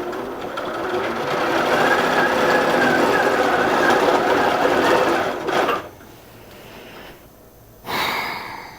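Long-arm quilting machine running at a steady speed for about six seconds, then stopping, with another short run near the end. The machine keeps breaking its thread while being tested.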